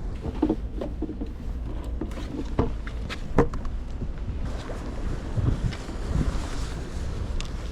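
Wind buffeting the microphone as a steady low rumble, with several short clicks and knocks, the loudest about three and a half seconds in.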